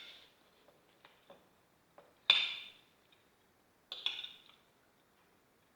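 Eating utensils clinking and scraping against a plate: three sharper clinks, at the start, a little over two seconds in and about four seconds in, with a few lighter ticks between.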